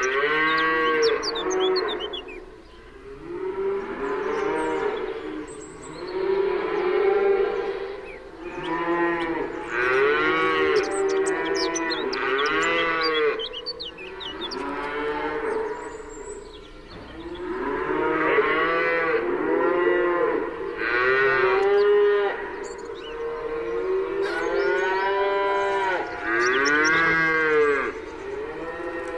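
Cows mooing, about ten long moos one after another and often overlapping, each rising and then falling in pitch.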